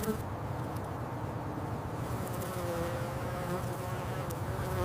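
A bee buzzing steadily, a continuous drone with a slightly wavering pitch.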